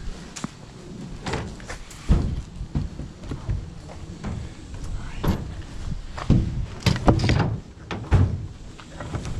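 Thumps and knocks of junk being shifted and set down while a load is arranged in a truck bed, a dozen or so separate impacts, the loudest about two seconds in and again around seven to eight seconds.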